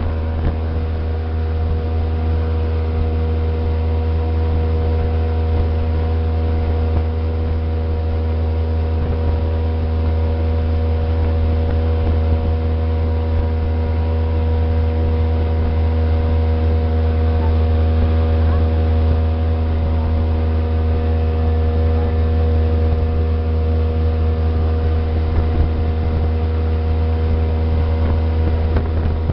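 Motorboat engine running steadily under way, a constant low drone with a steady hum above it that hardly changes.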